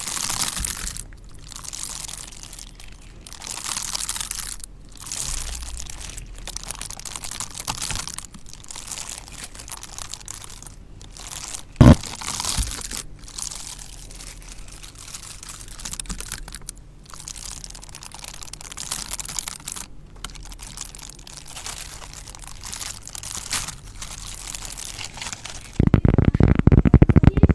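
Stones rubbed and scraped against each other in irregular gritty strokes, with one sharp click of stone on stone about twelve seconds in. About two seconds before the end a louder, denser grinding begins.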